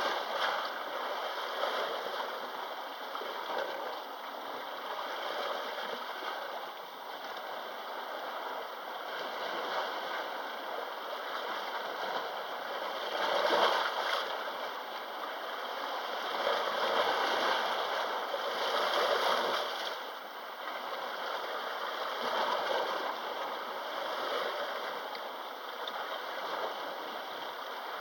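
Sea waves washing in. A steady rush of water swells every few seconds and is loudest about halfway through.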